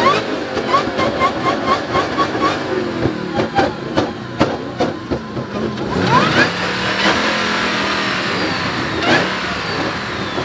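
Car engine revving hard: a quick string of short revs and sharp cracks over the first couple of seconds, then about six seconds in a fast climb to a loud, sustained high-rev run.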